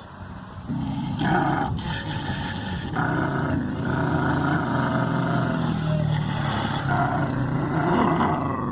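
Deep animal roaring and growling in long drawn-out stretches, starting about a second in.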